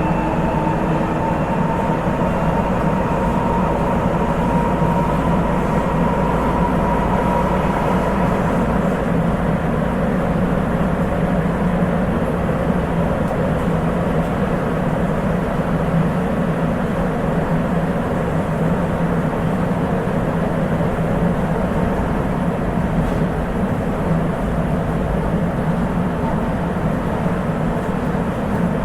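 Sapporo Municipal Subway 8000 series train running steadily at speed between stations, heard from inside the car: a continuous rumble of the running gear, with a faint high motor and inverter whine that fades out about nine seconds in.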